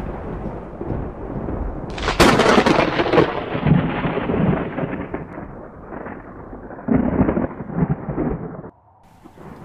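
Thunder: a sharp crack about two seconds in, then a long rolling rumble that swells a few times and fades, dropping away near the end.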